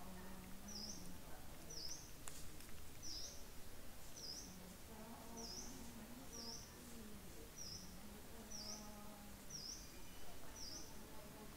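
A bird repeating a short, high chirp about once a second, over a faint low drone.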